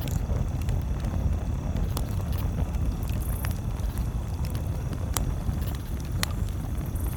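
Campfire crackling, with a few sharp pops standing out about 2, 5 and 6 seconds in, over a steady low rumble.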